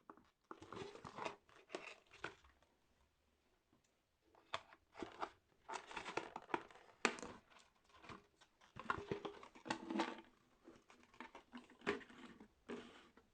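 Packaging crinkling, rustling and tearing in irregular bursts as a toy is unpacked by hand, with a short lull about three seconds in.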